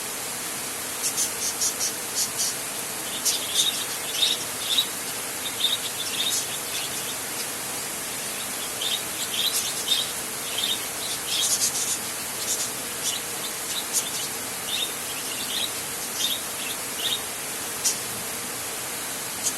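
Steady rain hiss with birds chirping over it in short, repeated bursts of high chirps scattered throughout.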